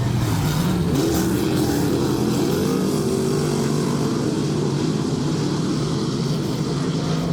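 Dirt-track race car engines running together around the oval, a steady drone whose pitch wavers up and down as the cars go through the turns.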